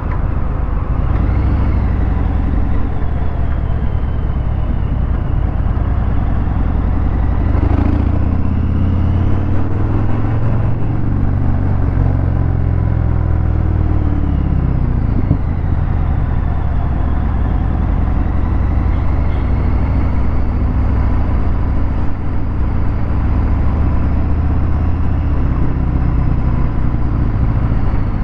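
Harley-Davidson Fat Bob 114's Milwaukee-Eight V-twin running through a Vance & Hines Hi-Output 2-into-1 exhaust, heard from the rider's seat in traffic. The revs climb and then drop back around the middle.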